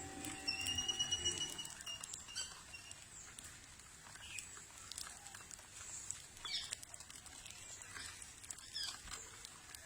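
Garden birds calling: one clear, even whistled note lasting about a second, starting about half a second in, followed by a few faint, short chirps, some falling in pitch.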